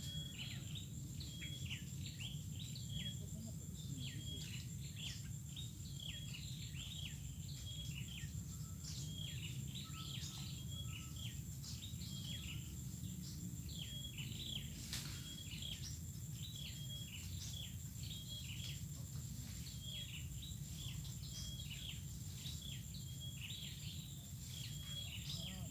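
Birds chirping over and over, short high calls that dip in pitch, in a swampy thicket. Under them run a steady high-pitched whine and a low background rumble.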